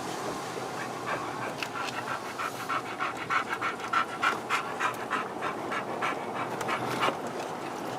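Dog panting repeatedly over the steady road noise of a moving vehicle's cabin.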